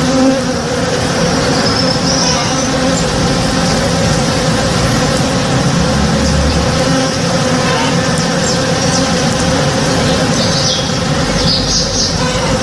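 Many honey bees buzzing steadily while foraging in a blossoming tree: a dense, even hum of overlapping wingbeats, with a few short high chirps over it.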